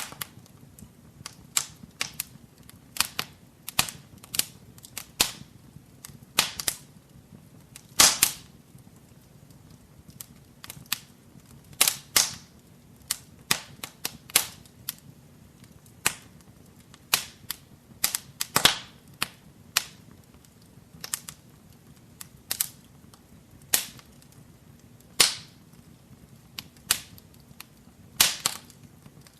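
Wood fire burning in a fireplace, crackling with irregular sharp pops and snaps, some much louder than others, over a faint steady low background of the flames.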